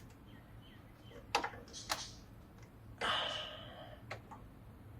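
Faint clicks and knocks of parts being handled in a car's engine bay, with a short scraping rustle about three seconds in.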